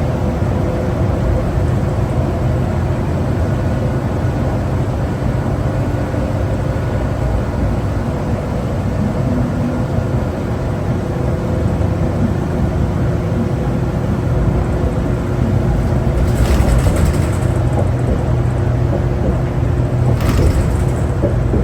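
Cummins ISL9 diesel engine of a 2011 New Flyer D60LFR articulated bus running, heard from inside the cabin as a steady low rumble. Two short hisses come near the end.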